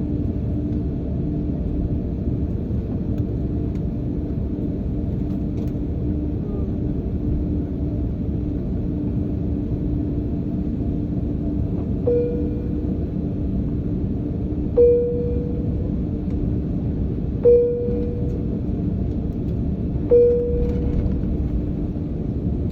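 Steady airliner cabin rumble with a constant low hum. About halfway through, four identical bell-like chimes sound, evenly spaced roughly every three seconds, each fading quickly.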